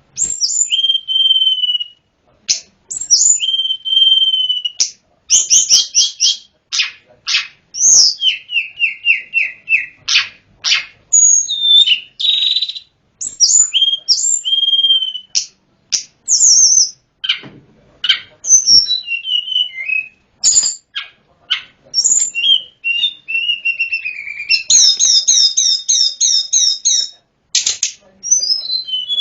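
A tledekan gunung (sulingan gunung) songbird singing a long, varied song of clear whistles, slurred notes and quick runs of repeated notes, with a fast high trill near the end.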